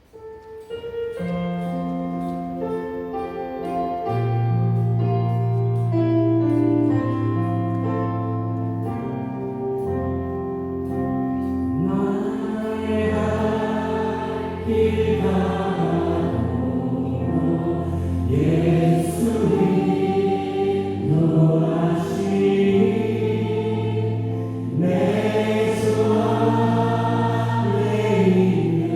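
Church worship band starting a song: keyboard and bass play an intro, then a group of singers comes in about twelve seconds in, singing over the band.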